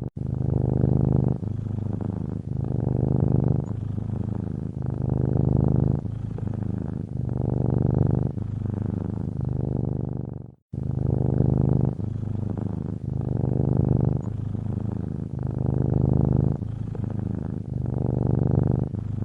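Domestic cat purring, in steady rhythmic swells about once a second as it breathes in and out. The purring drops out for a split second about ten seconds in and starts again.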